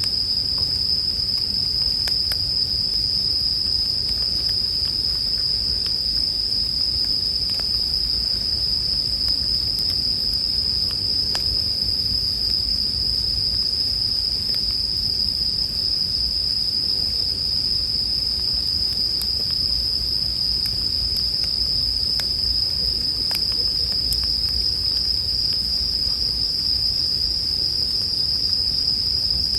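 Bell crickets (suzumushi) singing in a steady, high-pitched chorus, with faint scattered crackles and pops from a wood campfire underneath.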